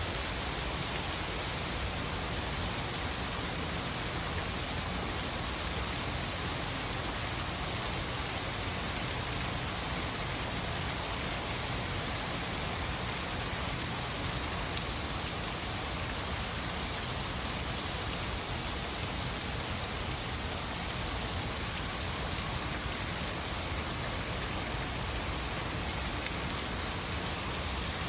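Steady rain from a tropical storm falling and pattering on surfaces, an even hiss that does not change.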